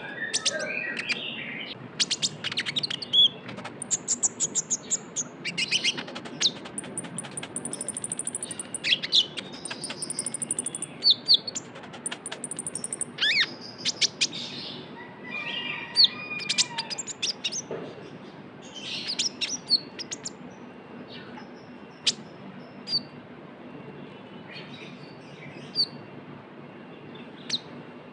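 Konin ('kolibri ninja') sunbird singing in the fast, chattering 'trotol' style: quick runs of sharp, high chirps and ticking notes, with thin, very high trills, thinning out to scattered single chirps in the last part.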